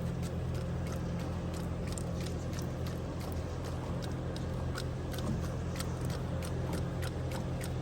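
Gearbox running with a steady low hum and irregular sharp clicks and knocks, a fault noise the mechanics suspect comes from a bearing whose outer ring has worked loose and jumps.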